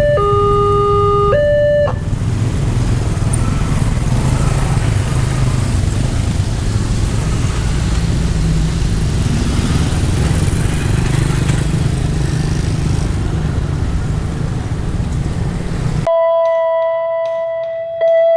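Railway level-crossing warning siren (Wantech EWS) wailing in two alternating tones, stepping between a lower and a higher pitch, and cutting off about two seconds in. A steady low rumbling noise follows. Near the end it cuts to guitar music.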